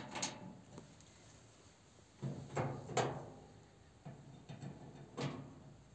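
Sharp metallic clicks and knocks of cast-iron stove parts and bolts being handled and fitted during assembly. There is one at the start, a cluster of heavier clunks from about two to three seconds in, and another near the end.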